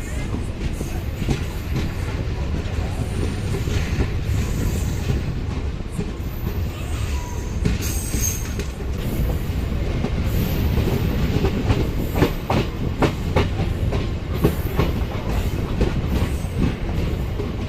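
MEMU electric multiple-unit train running along the line, a steady low rumble with the clickety-clack of wheels over rail joints. The clicks come thicker in the second half.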